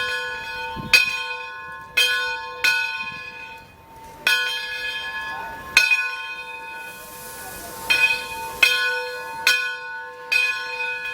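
Brass bell of a Baldwin steam locomotive rung by hand in uneven strokes, about ten in all, each ringing on and fading, with a longer pause in the middle.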